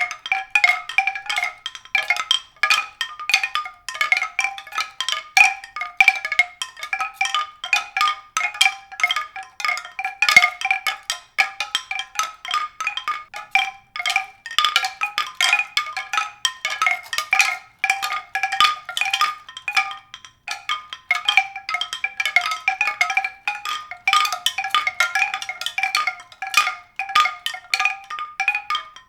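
Continuous high-pitched tinkling of struck tuned percussion, like glockenspiel or chime notes: many quick, bright notes a second, several repeating at the same few pitches, with no low notes.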